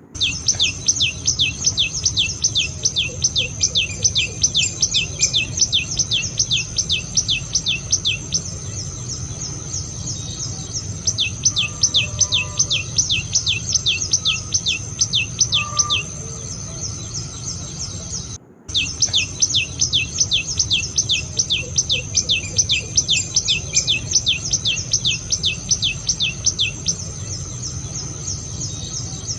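Common tailorbird calling: a rapid series of sharp, falling notes, about four a second, in runs of several seconds separated by short pauses, over a steady high insect drone.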